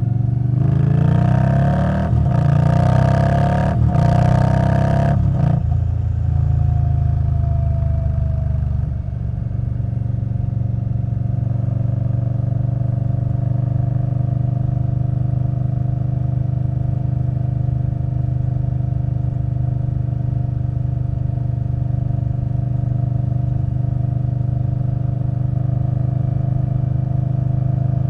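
2021 Indian Scout Bobber Twenty's V-twin through a V&H Twin Slash exhaust, revving under way with wind rush for the first few seconds. The revs then fall away, and from about nine seconds in the engine settles into a steady, even idle.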